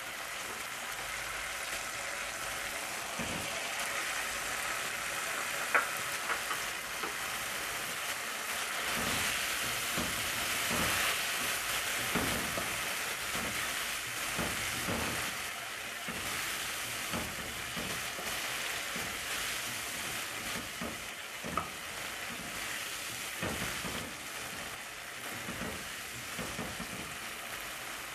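Onion and tomato masala sizzling in a non-stick frying pan as boiled red kidney beans are stirred in with a spatula. The sizzle swells for a few seconds near the middle, with occasional clicks and scrapes of the spatula against the pan.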